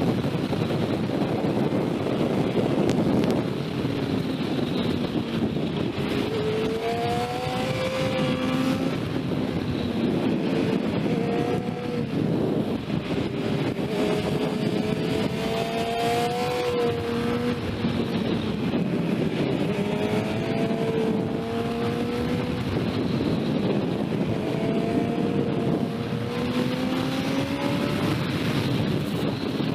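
Sport motorcycle engine accelerating in several long pulls, its pitch climbing through each, under a dense rush of wind noise.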